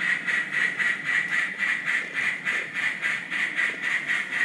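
N gauge model trains running over the track: a steady high motor whine with a fast, even clicking of about six or seven beats a second.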